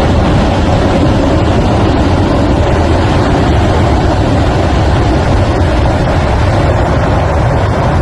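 Debris flow of water, mud and boulders rushing down a channel: a loud, steady, unbroken rumble of rushing noise.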